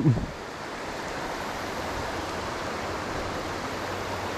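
Shallow, fast river water rushing over stones: a steady, even rush.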